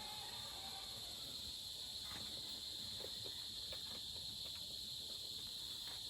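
Steady high-pitched chorus of insects such as crickets or cicadas, with a few faint clicks.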